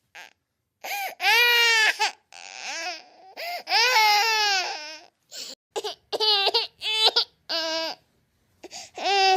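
A baby girl crying: two long cries that rise and fall in pitch, then a string of short, broken sobs and one more cry near the end.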